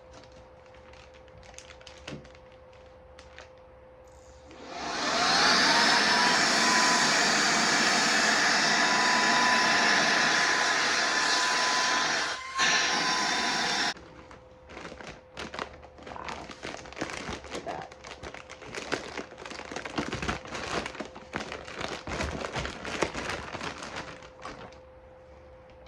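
Saker 3-in-1 handheld vacuum's brushless motor run as a blower through its short nozzle to inflate a bag: it starts about four seconds in with a rising whine that settles to a steady pitch, dips briefly, and cuts off suddenly. After it stops, a long run of crinkling and clicks follows.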